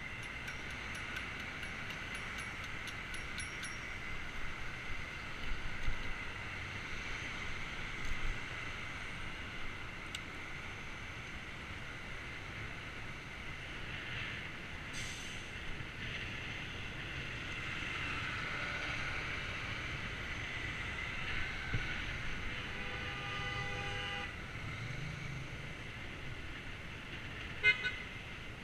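Moving bicycle recorded by a GoPro: a steady rush of wind and tyre noise with scattered clicks and rattles from the bike. About 23 seconds in, a horn sounds briefly, and a sharp click comes near the end.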